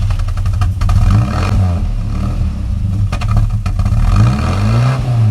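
Isuzu 4ZE1 2.6-litre four-cylinder petrol engine running in neutral after sitting unstarted for months, its revs rising and falling twice.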